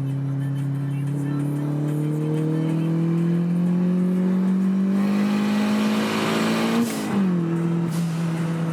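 Turbocharged 1.6-litre Mitsubishi 4G61 engine in a Mitsubishi Colt pulling under light acceleration, its pitch rising steadily with a growing turbo hiss. About seven seconds in the throttle closes, the engine note drops, and the Tial blow-off valve vents with a short, sharp hiss.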